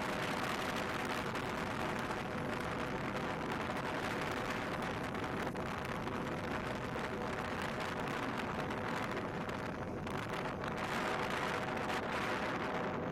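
Motorcycle on the move: steady wind rush on the microphone, with the engine running under it at an even pace.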